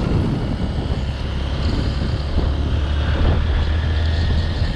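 Motorcycle engine running steadily at cruising speed, a continuous low drone, with wind buffeting the microphone.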